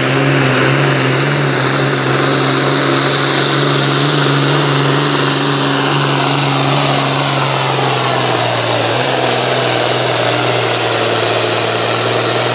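Farm tractor's diesel engine running hard at full throttle while pulling the weight sled, a loud, steady run with a high whine above it.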